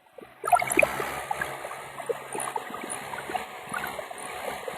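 Tractor engines running under load in a tug-of-war, heard outdoors as a steady low hum in a noisy wash with scattered crackles. The sound cuts in abruptly about half a second in, after a brief silence.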